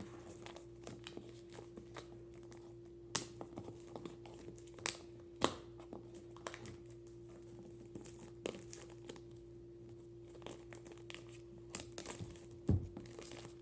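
Unboxing packaging being handled: faint crinkling and tearing of wrapping, with scattered sharp clicks and taps, over a steady low electrical hum.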